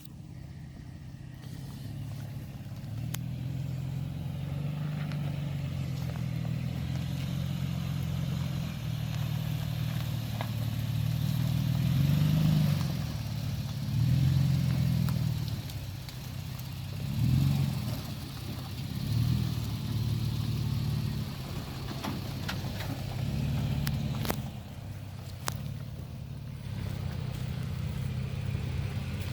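Toyota Tacoma pickup engine working through an off-road trail obstacle in four-wheel drive, revving up and easing off in repeated swells. A few sharp clicks are also heard.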